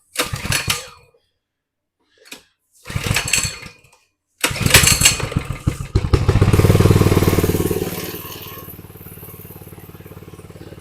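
Coleman 100cc minibike's small single-cylinder engine: two brief sputters, then it catches about four seconds in, runs loud for a few seconds and drops to a steady idle, an idle the mechanics find sitting too high.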